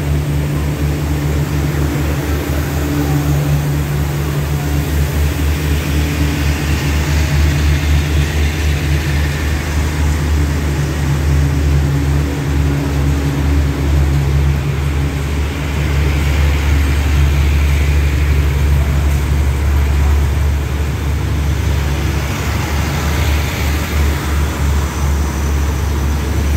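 Express passenger train rolling slowly past along the station platform: a steady low diesel drone under the rumble and rattle of the moving coaches.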